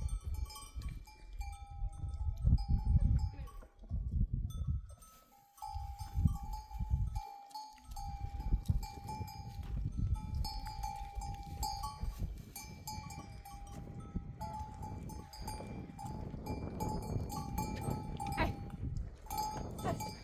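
Bells on a flock of sheep and goats clanking and ringing on and off, under low gusty wind rumble on the microphone.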